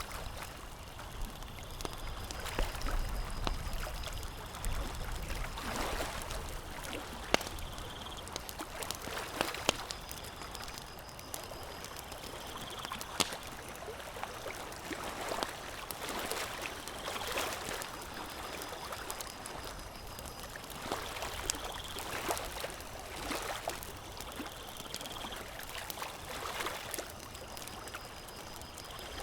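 Campfire crackling, with sharp pops every few seconds, over a swelling and fading wash that sounds like water lapping. Faint high tones come and go every few seconds.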